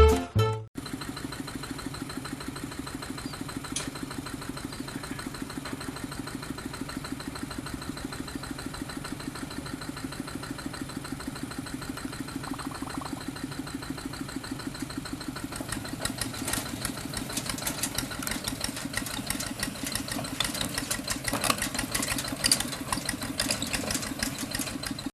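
Quick Harvester H 140 combine harvester's engine running with a fast, even chugging pulse; from about two-thirds of the way in it becomes louder, with sharper clattering knocks.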